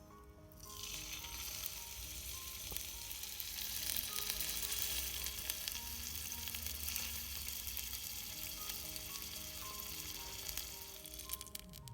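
Food frying in a miniature pan: a steady sizzle that starts just under a second in, swells, then eases off near the end.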